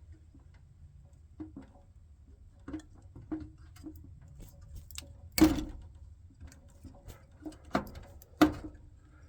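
Scattered small clicks and knocks of hands and tools working on metal as an old furnace transformer is removed, with one sharper knock about five and a half seconds in and two more near the end, over a faint low hum.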